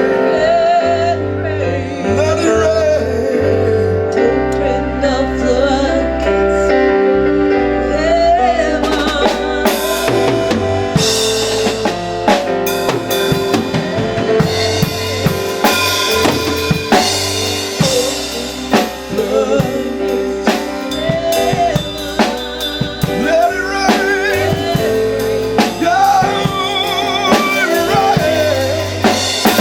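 Live gospel church music: held keyboard chords and a bass line with a wavering vocal line, and a drum kit with bass drum, snare and rimshots that comes in strongly about nine seconds in and keeps a busy beat.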